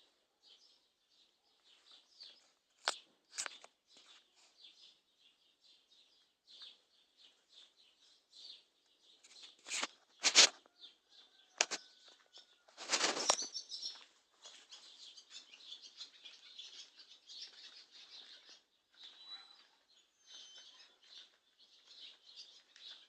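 Small birds chirping steadily and quietly, with a few sharp knocks scattered through it: the loudest about ten seconds in, and a longer, deeper noise about thirteen seconds in.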